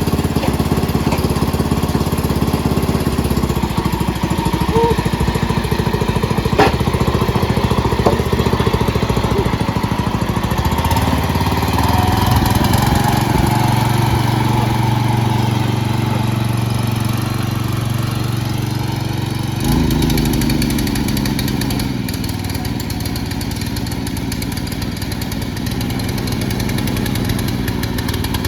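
Small lawn tractor engine running at full throttle, its note shifting under changing load and dropping abruptly about twenty seconds in to a lower, quieter run, with a sharp knock about six and a half seconds in.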